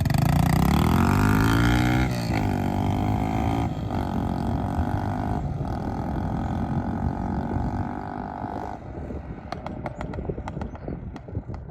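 Mini bike's 196cc clone single-cylinder engine running, its pitch rising and wavering in the first two seconds, then holding a steady note until it drops away about nine seconds in, leaving scattered clicks. The engine is blown up and not running right.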